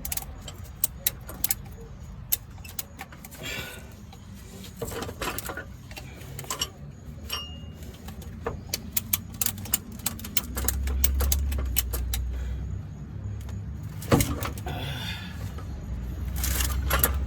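Metal parts and tools clicking and clanking in irregular sharp knocks, with short scraping sounds and a low rumble in the second half, from heavy hand work wrestling a manual transmission into place on a jack.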